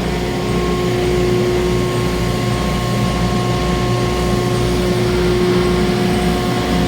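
Red chilli powder grinding machine running steadily, a constant hum with a low throb pulsing a little under twice a second.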